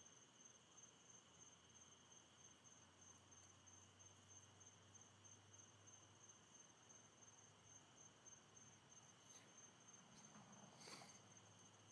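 Near silence with faint, steady chirping of night insects. A brief faint rustle comes near the end. No thunder is audible.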